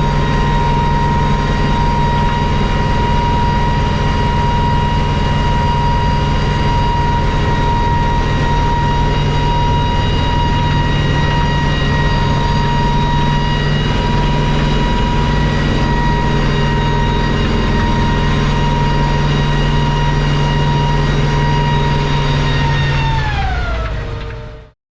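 Kamov Ka-26 helicopter's twin radial piston engines and rotors running steadily, with a high whine over a low hum. About 23 seconds in, the whine drops in pitch, and then the sound cuts off.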